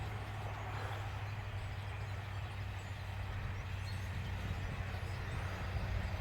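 A large flock of birds flying over in a swarm, its many wingbeats making a steady whirring with faint high chirps, over a steady low rumble.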